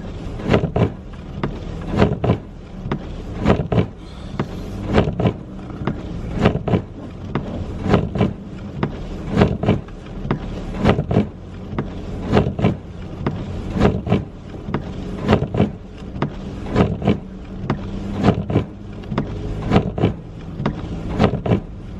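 Car interior while driving: a steady low engine and road hum under regular sharp thumps about every three-quarters of a second, typical of windshield wipers sweeping on a fast setting in snow.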